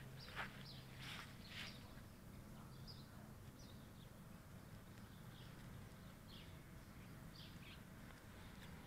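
Faint birds chirping, short scattered calls that come thickly in the first couple of seconds and then only now and then, over a low steady hum.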